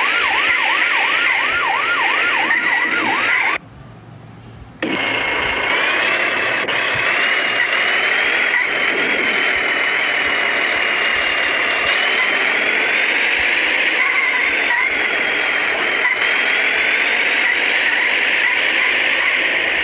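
An ambulance siren wails fast, rising and falling about four times a second, then cuts off about three and a half seconds in. After a short lull, a dense steady vehicle noise with a slowly wandering high whine takes over.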